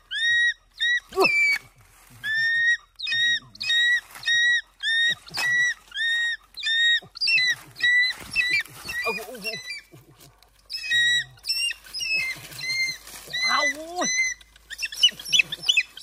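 Young black birds squawking: a short, harsh, even-pitched call repeated about three times every two seconds, with a few lower, sliding cries near the end.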